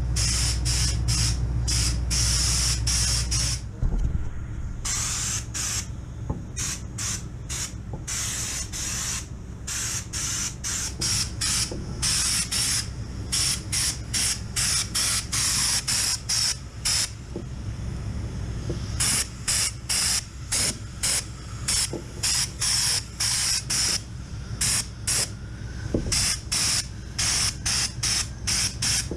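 Air-fed underseal spray gun hissing in many short bursts as the trigger is squeezed and released again and again, with a steady low hum underneath.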